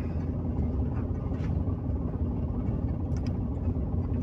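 Steady low engine and road rumble heard inside the cabin of a car driving slowly along.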